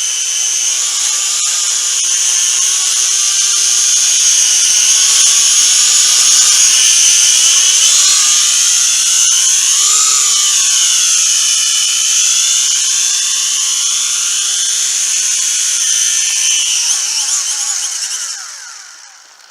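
Huajun Toys Flanker W606-5 toy quadcopter's motors and propellers whining loudly. The pitch swings up and down as the throttle changes about halfway through. Near the end the whine dies away as the motors stop.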